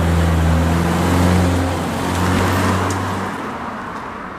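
Subaru Impreza Sport's 2.0-litre flat-four engine running at low speed through its stock (factory) muffler, a steady low exhaust note that fades away near the end.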